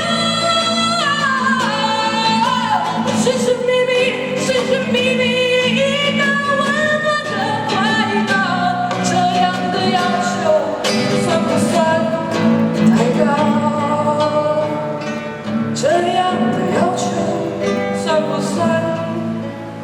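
A woman singing over acoustic guitar, her voice sliding up and down in long runs; the music tails off near the end.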